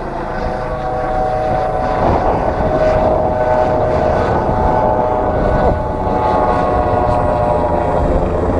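Helicopter close by, its engine whine and rotor noise growing louder over the first two seconds and then holding steady.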